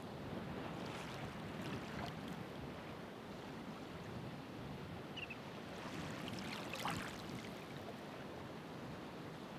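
Ocean waves washing onto the shore in a steady rush, with breaking water swelling and fizzing about a second in and more strongly around six to seven seconds in.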